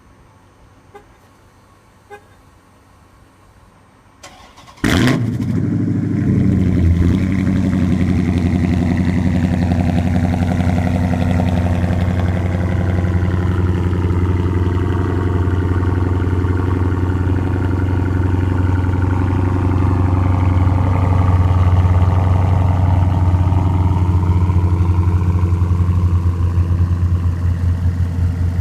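A couple of faint clicks, then the 2014 Dodge Charger SRT8 Super Bee's 6.4-litre HEMI V8 cranks briefly and catches about five seconds in with a loud flare. It settles into a steady, deep cold idle through a glass-pack straight-pipe exhaust.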